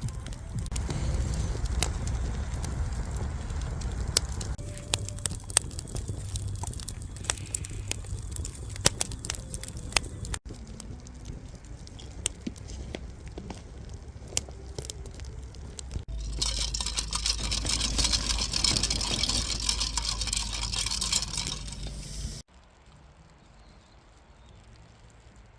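Wood fire crackling and popping with sharp snaps, in several short cut-together stretches; one louder stretch near the end carries a steady hiss, and the last few seconds are much quieter.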